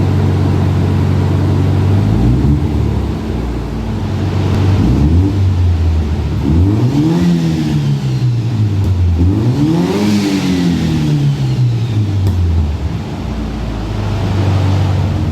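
Turbocharged FJ20ET four-cylinder engine idling and being revved several times, its pitch climbing and falling back with each blip of the throttle. The two biggest revs come about seven and ten seconds in.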